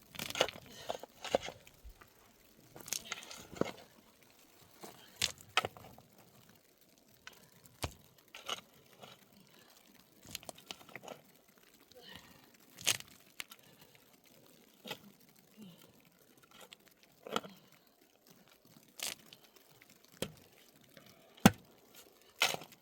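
Irregular rustling, crinkling and sharp clicks and knocks of things being handled, a few seconds apart, with no steady rhythm.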